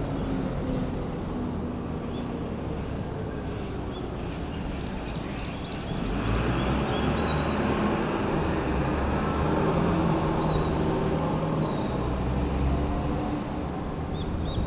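Electric commuter train running on the line: wheels rumbling on the rails under a low motor hum whose pitch slowly glides. It gets louder about six seconds in, with a few short high chirps over it.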